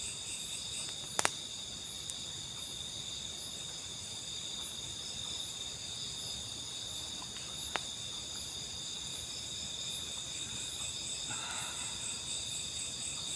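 A steady, high-pitched chorus of night insects chirring in the forest, several pitches layered together. It is cut by a sharp click about a second in and another near eight seconds.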